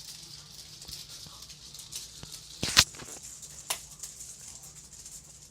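Ceiling fan spinning with a long strip of tape stuck to one blade, the tape fluttering and rustling in the air over a low motor hum. A sharp knock comes about three seconds in, and a smaller one a second later.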